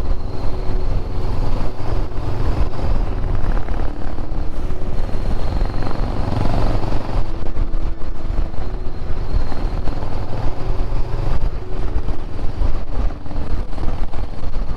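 Motorcycle running at steady road speed, with wind rushing and buffeting over the microphone.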